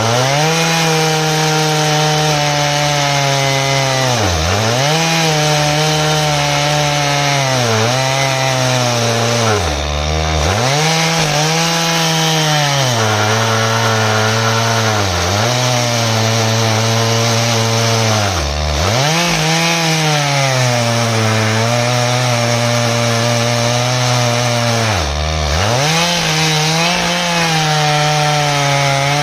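Stihl MS 881 two-stroke chainsaw on an Alaskan chainsaw mill running hard through an ash log. Its engine note dips briefly and recovers about every three to five seconds as it works in the cut.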